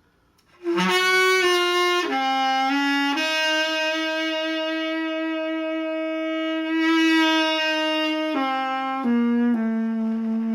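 Solo saxophone playing a slow, meditative phrase, entering about a second in: a few short notes, then one long held note of about five seconds, then stepping down to a lower note held near the end.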